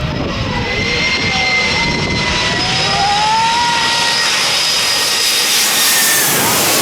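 Four turbofan jet engines of a Boeing 747 passing low overhead on landing approach: a loud, steady jet roar with a high whine. The roar grows brighter toward the end and then begins to ease off.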